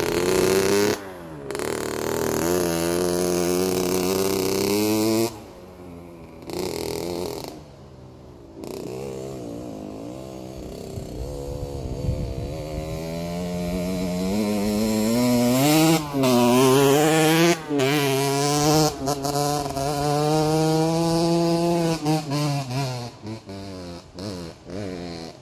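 Kawasaki KX60's small 60cc two-stroke single-cylinder engine revving up and down as the minibike climbs a hill, with the throttle chopped off a few times. The revs build to their loudest past the middle, then cut in and out in quick blips near the end.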